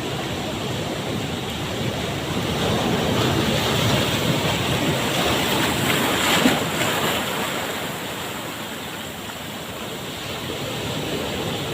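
Ocean surf: a wave surges in, swelling for a few seconds and then easing off as it washes back, with wind buffeting the microphone.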